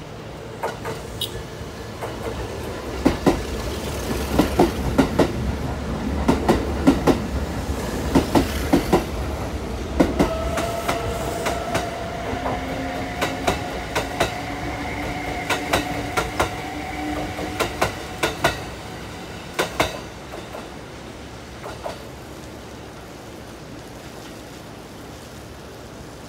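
Kintetsu limited express electric trains in a station. Wheels clack rapidly over rail joints above a low rumble, then a motor whine rises slowly in pitch as a train accelerates. The clacking dies away about twenty seconds in.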